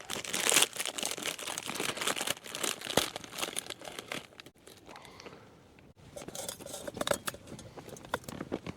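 Plastic food packaging and bags crinkling and rustling as packets of instant noodles are handled and sorted, in irregular crackles with a quieter stretch about midway.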